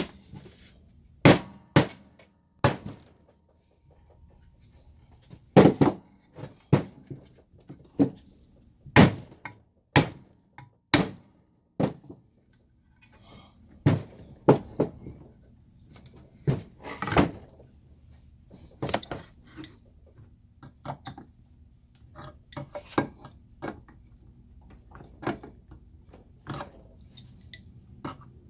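Hammer blows on the bent sheet-steel chassis of a Leslie 122 amplifier, knocking the bend straight: a dozen or so sharp strikes at irregular spacing. After a short pause about twelve seconds in, they give way to lighter, quicker taps and metallic clinks.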